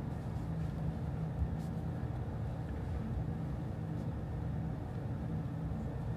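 Steady low room hum of office ambience, with a couple of faint clicks.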